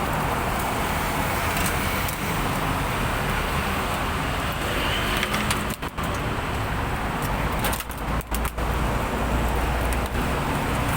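Steady road traffic noise, a continuous low rumble and hiss, that dips for a moment a few times in the second half.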